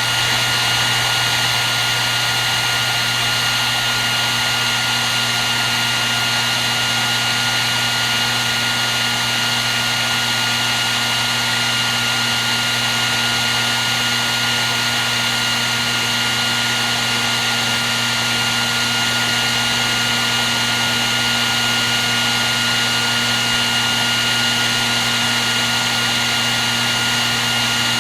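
Hair dryer running steadily at one setting: an even rush of air with a steady high whine over a low motor hum.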